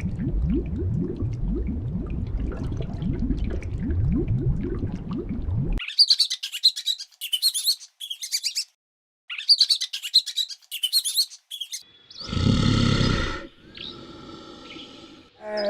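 A small bird chirping in quick, high-pitched clusters through the middle, after a low rumbling animal sound with repeated short rising sweeps. Near the end comes a short, loud call of another animal.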